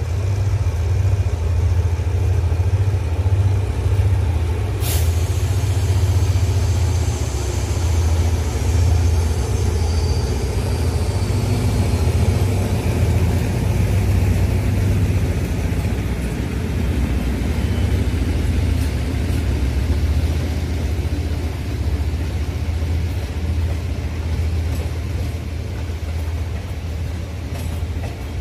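Passenger train running past close by: a loud, steady low rumble of the carriages on the track. A sharp click comes about five seconds in, and a faint high squeal falls slowly in pitch over the following few seconds.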